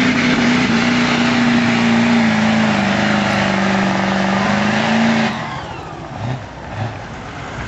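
Diesel pickup truck engine held at high revs with a heavy exhaust and turbo hiss, its pitch sagging slightly. It drops off abruptly about five seconds in as the throttle is let off.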